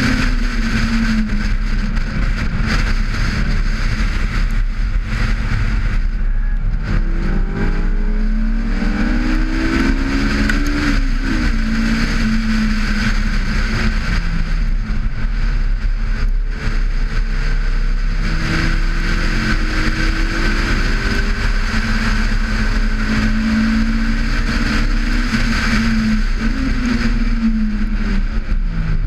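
Honda S2000's 2.0-litre F20C four-cylinder engine under load on track. Its revs climb in long rising sweeps and drop back about eleven seconds in and again near the end, over a steady rush of wind and road noise.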